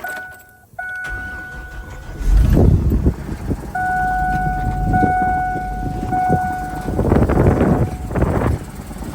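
The 2008 GMC 7500's 8.1-litre gasoline V8 is cranked and catches about two seconds in, then keeps running, while a steady dashboard warning buzzer sounds at the start and again three times over the running engine. Two loud rushing surges come near the end.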